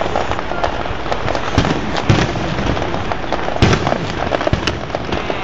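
Aerial fireworks bursting in quick succession: a steady run of crackles and bangs over a continuous rumble, with louder booms about two seconds in and again past the middle.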